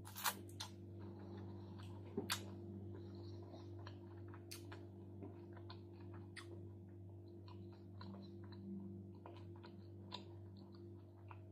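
Close-miked chewing of a mouthful of salad: soft wet mouth clicks and squishes scattered throughout, with a couple of sharper clicks in the first few seconds. A low steady hum sits underneath.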